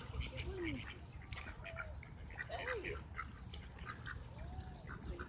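Ducks calling repeatedly: several short calls that rise and fall in pitch, mixed with scattered higher chirps. There is a steady low rumble of wind on the microphone throughout.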